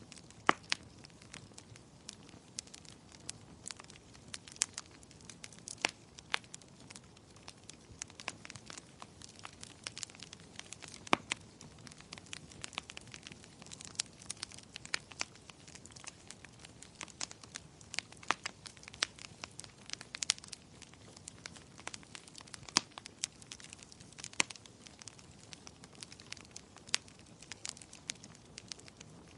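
Wood fire crackling, with irregular sharp pops and snaps, a few much louder than the rest, over a soft steady hiss.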